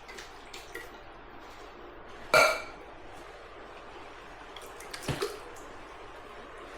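Canned diced tomatoes being emptied into the pot, with wet drips and plops. A single sharp, ringing knock comes about two and a half seconds in, and a smaller one about five seconds in.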